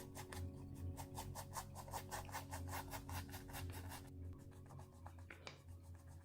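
Charcoal pencil scratching on paper in rapid, even back-and-forth shading strokes, several a second. The strokes stop about four seconds in, and one or two single strokes follow.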